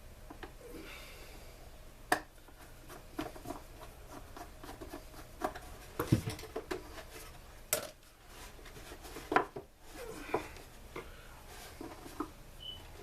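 Hand tools and blower parts clicking, knocking and rubbing as a backpack blower is taken apart: scattered sharp knocks, a few of them louder, between quieter handling noises.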